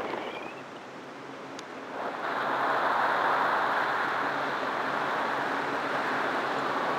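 Wind noise from a powered paraglider gliding with its engine off: air rushing past and through the wing's lines, with no motor running. The rush grows louder about two seconds in.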